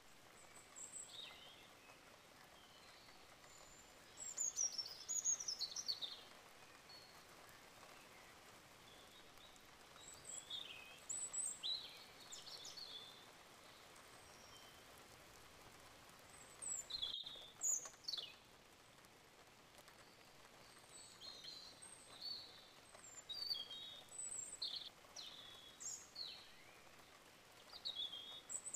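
Small birds chirping: short, high sweeping calls that come in clusters every few seconds, over a faint steady hiss.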